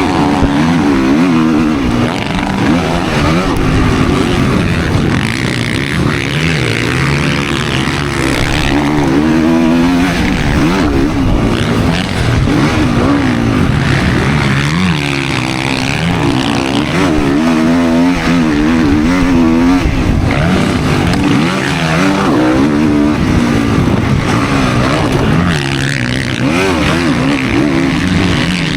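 Motocross dirt bike engine at race pace, its revs climbing and dropping again and again as it is throttled and shifted around the track.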